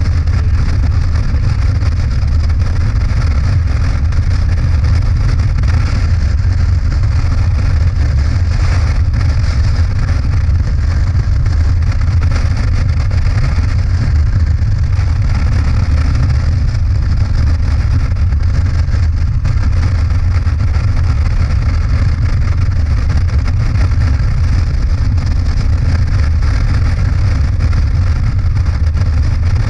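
Motorcycle engine running steadily while riding, with wind noise over it.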